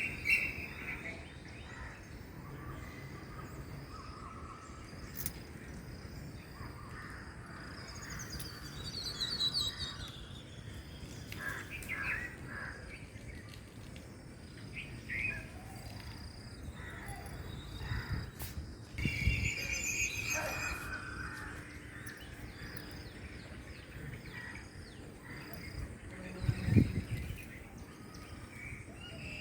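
Several wild birds calling and chirping on and off over a steady background hiss with insects, a morning dawn chorus. Two low thuds, about two-thirds of the way through and near the end; the later one is the loudest sound.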